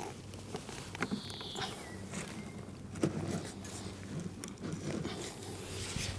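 Light handling noises: scattered small clicks and rustles, with a short high squeak about a second in.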